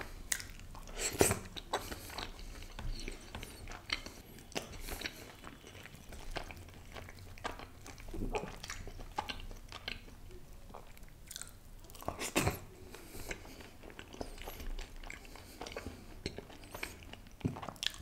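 Close-miked chewing of sauce-coated butter chicken: wet mouth sounds and lip smacks, with a few louder ones about a second in, around eight seconds and around twelve seconds.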